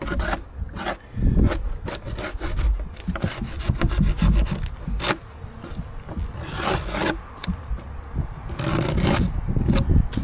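Irregular scraping and rubbing on wooden beehive parts, with small knocks, as dead bees are cleared out of the hive.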